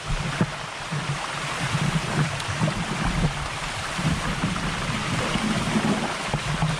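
Steady rushing water of a waterfall, with a few short knocks and crackles mixed in.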